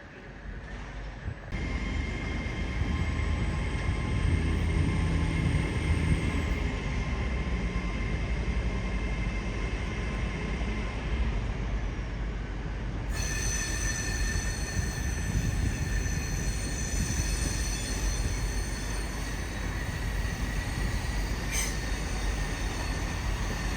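A train moving at low speed, with a steady rumble and high-pitched, squealing steel wheels. It gets louder about a second and a half in, and a new set of higher squeal tones comes in about halfway through.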